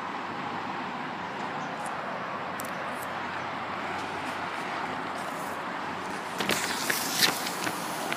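Steady hiss of outdoor street ambience, with a cluster of sharp clicks and taps starting a little over six seconds in.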